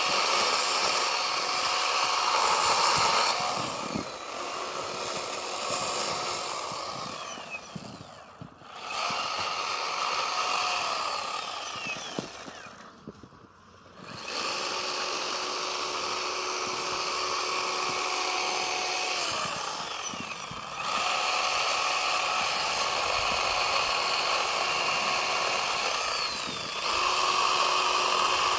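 Chainsaw cutting into a block of packed snow, held at high revs for several seconds at a time. The throttle is let off a few times, the pitch falling away, with two short near-pauses about a third and halfway through.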